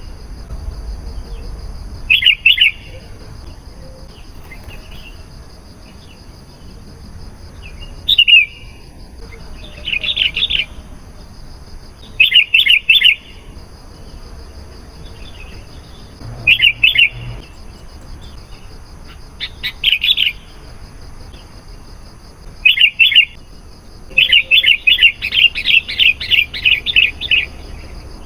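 Sooty-headed bulbul singing: short bursts of quick, bright chirpy notes every two to three seconds, then a longer run of rapid notes near the end, over a faint steady high-pitched whine.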